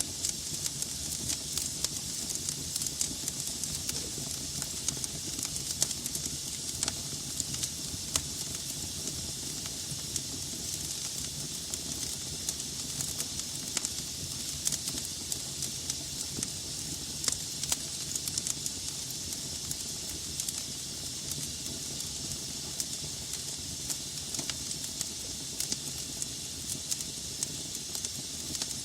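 Wood fire burning in a fireplace: a steady hiss with frequent sharp crackles and pops from the logs, a few louder pops in the first half.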